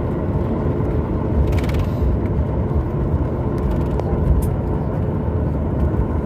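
Steady low rumble inside a Boeing 737 MAX 8's cabin on the ground after landing, with a faint steady hum, and a brief light rattle about one and a half seconds in.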